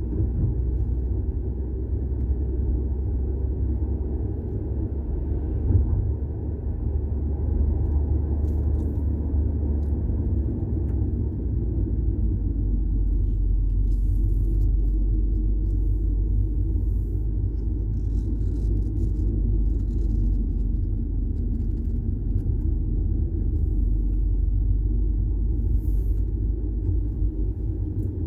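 VW Golf 6 TSI running: a steady low rumble, its deepest part growing stronger about twelve seconds in.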